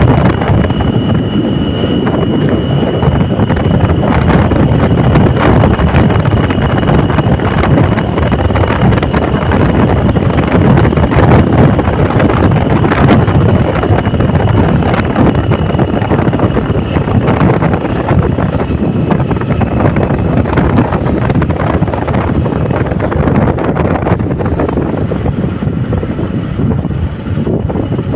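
Wind buffeting the microphone of a moving vehicle, with engine and road noise underneath. A faint, steady high whine runs through the first two-thirds.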